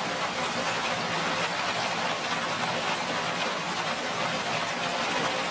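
Heavy tropical rain falling steadily, a dense even hiss with no letup.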